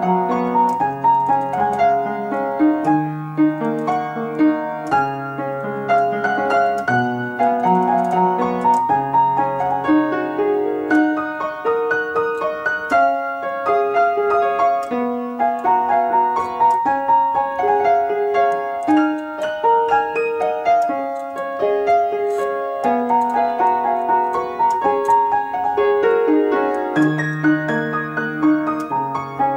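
Piano playing a flowing melodic piece: a steady stream of notes over held bass notes that change about every two seconds.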